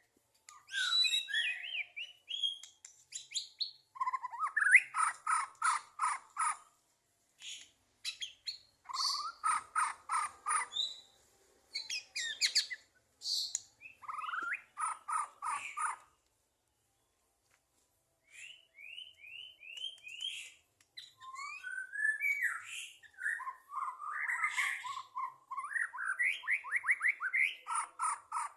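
White-rumped shama (murai batu) singing a long, varied song in phrases: rapid runs of repeated notes alternating with clear whistles, with a pause of about two seconds midway. The bird is in full, free-flowing song, which fanciers call 'lepas trotol'.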